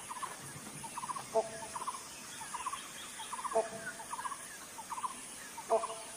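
A bird calling over and over, about every two seconds. Each call is a short low note followed by a quick rattling run of three or four notes. A faint, steady high hiss lies underneath.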